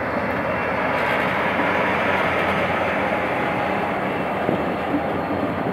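GM GT22CW diesel locomotive running hard as it pulls a passenger train away from the station, then the coaches rolling past, with a few wheel knocks near the end.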